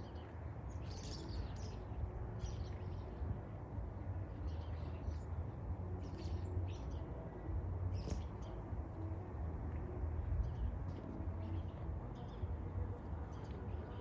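Small birds chirping in short, scattered high calls, over a steady low rumble.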